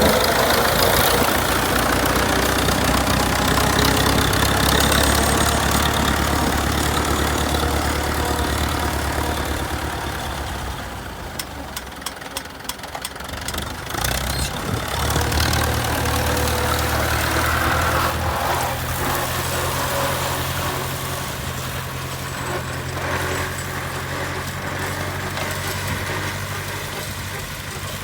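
Tractor engine running steadily. Around halfway it dips, with a few sharp clicks, then picks up again a few seconds later.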